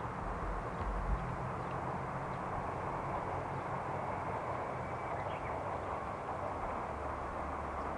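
A diesel railcar rumbling steadily in the distance as it moves away along the line, with a few faint bird chirps.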